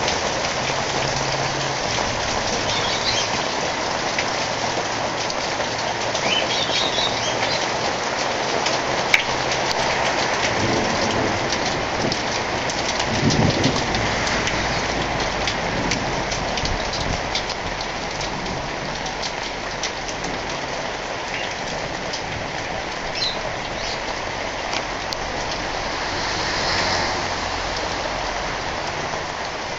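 Heavy thunderstorm rain pouring steadily. Thunder rumbles low about thirteen seconds in.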